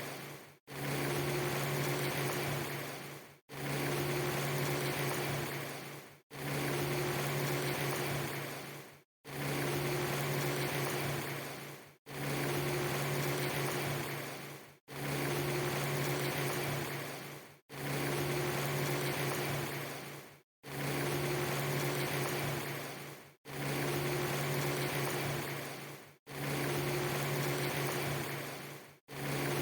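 A steady hiss with a low, even hum underneath. It is a short loop that fades out to a brief silent gap and restarts about every three seconds.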